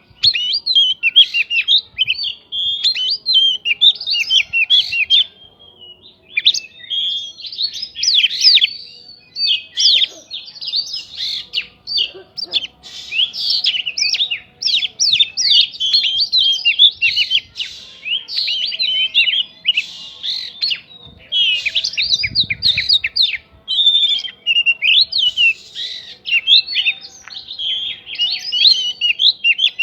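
Oriental magpie-robin (kacer) singing a fast, varied, almost unbroken song of whistles and chatters, its song filled with mimicked prinia phrases. There is a short pause about six seconds in.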